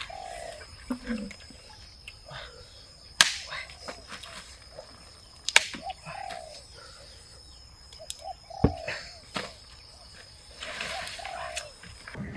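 Short low bird calls now and then, with four or five sharp knocks a couple of seconds apart and a steady high insect-like drone behind them.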